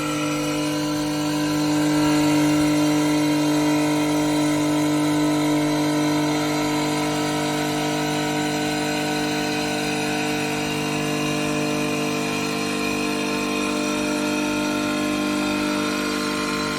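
CNC stone-cutting machine running, its spindle giving a steady hum made of several held tones, slightly louder from about two seconds in.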